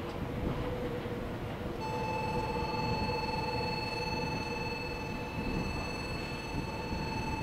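A train running through the station with a steady rumble of wheels on rail. About two seconds in, a steady electronic tone starts and keeps sounding.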